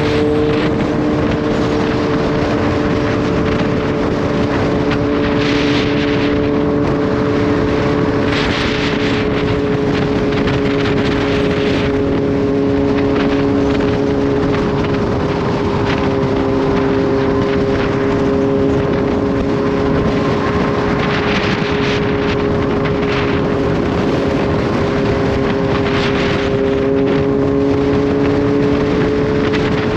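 Kawasaki Z H2's supercharged inline-four engine running at a steady, even pitch while the bike cruises, under a constant roar of wind and road. Several short gusts of wind hit the microphone.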